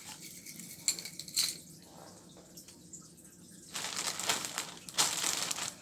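Party supplies being rummaged through and taken out by hand: scattered clicks and taps, then from about four seconds in a stretch of crinkly rustling like a plastic bag being handled.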